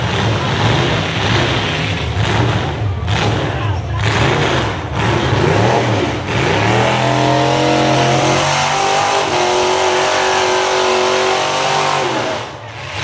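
Demolition derby cars' engines revving unevenly. About halfway through, one engine is held at steady high revs for several seconds, then drops off near the end.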